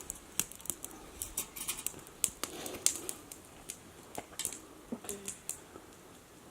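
Campfire crackling: irregular sharp snaps and pops, several a second, over a faint hiss from the burning wood.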